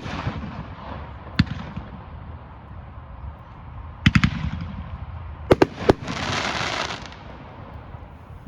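Consumer aerial firework cake firing. Single shots are followed by a quick run of three or four bangs about four seconds in and three more a little later, then about a second of dense crackling hiss from the breaking effects.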